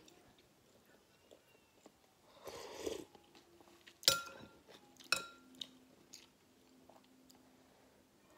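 Close-miked eating of noodle soup with pork and shrimp: chewing, a short rush of mouth noise about two and a half seconds in, then two sharp clicks about a second apart, each followed by a faint ringing tone.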